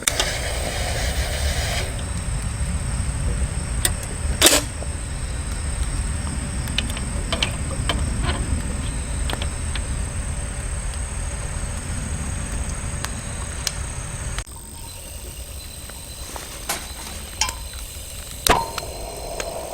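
Grass insects keep up a steady high trill over a low rumble, with scattered sharp clicks and knocks. The rumble cuts off abruptly about two-thirds of the way through.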